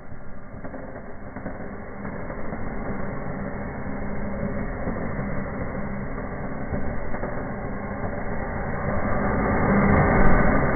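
Indoor table firework fountain ('bee volcano') burning with a steady buzzing hiss that grows gradually louder, peaking near the end.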